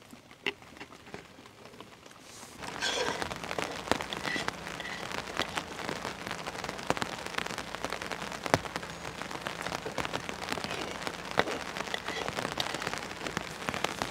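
Rain pattering with many sharp drop hits, turning suddenly heavier and louder about two and a half seconds in.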